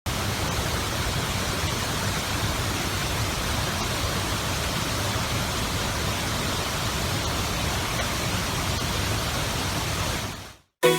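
Steady rush of falling water from a waterfall, fading out about ten seconds in.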